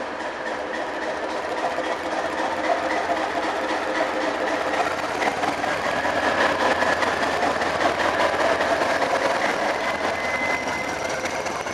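NIR Class 450 'Castle' diesel-electric multiple unit running past close by, its diesel engine drumming with a steady hum under the rail and wheel noise. It grows louder through the middle as the power car passes, then eases, and a high whine rises near the end.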